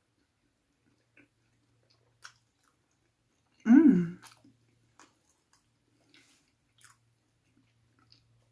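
Close-miked chewing of a sandwich wrap: sparse, soft wet mouth clicks, broken about four seconds in by one short, loud voiced sound from the eater.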